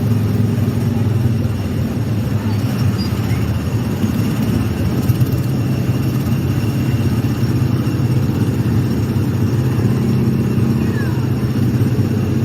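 Small gasoline engine of a Tomorrowland Speedway ride car running steadily under way.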